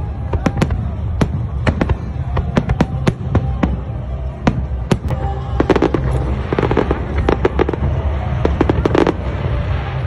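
Aerial fireworks going off in rapid succession: many sharp bangs and crackles, several a second, over a steady low rumble.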